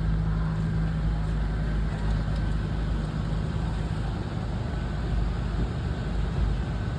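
Car engine idling steadily, a low, even hum with no change.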